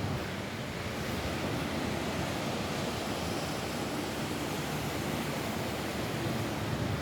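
Steady rain falling on a roof, an even hiss with a heavier low rumble, without separate drops standing out.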